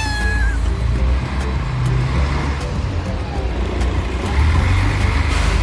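A motor engine running with a steady low rumble under background music with a light regular beat. A short falling squeal comes at the very start.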